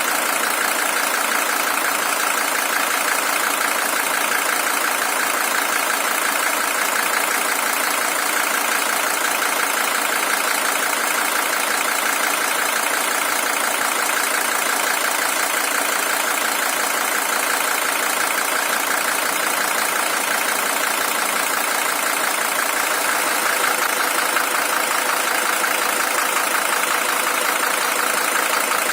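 Mercedes-Benz W123 300TD's OM617 five-cylinder diesel engine idling steadily.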